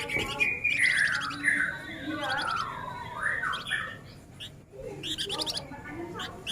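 Male flamboyan songbird singing a dense, rapid chattering song: quick buzzy trills mixed with descending slurred whistled notes.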